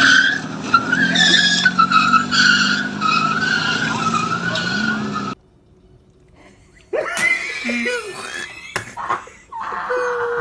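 Car tyres squealing in a wavering high tone over a running engine, cutting off suddenly about five seconds in. After a short gap come scattered knocks and a brief steady tone.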